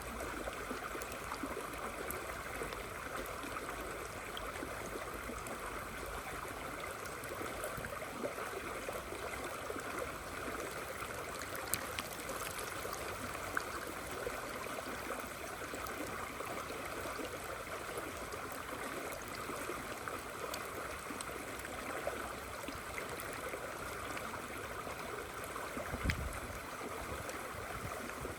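River water flowing steadily in the rain: a continuous, even rushing of water. A few faint sharp ticks stand out, and a brief low thud comes near the end.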